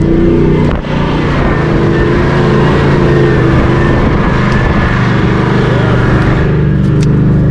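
Toyota LandCruiser engine pulling steadily under load in low range, second gear, towing an off-road caravan through soft beach sand, with a rush of wind and tyre noise in the cab.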